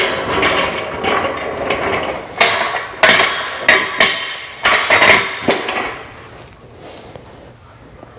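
Hammer blows, about eight sharp strikes in a few seconds, each ringing briefly; they stop about six seconds in.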